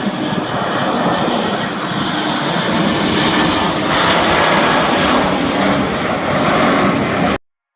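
Jet engine noise of a Boeing 787-9 airliner, a steady loud rush that grows slightly louder and cuts off abruptly near the end.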